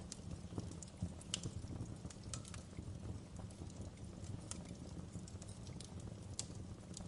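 Wood fire crackling in a fireplace: irregular sharp pops and snaps over a steady low rumble of the burning fire, with a louder pop about a second in and another near the end.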